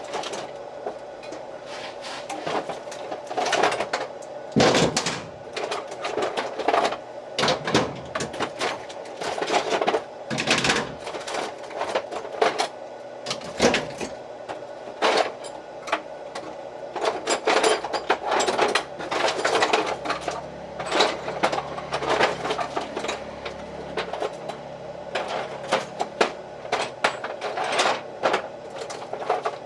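Irregular clicks, knocks and clinks of small metal parts and hand tools being handled, over a steady faint background hum.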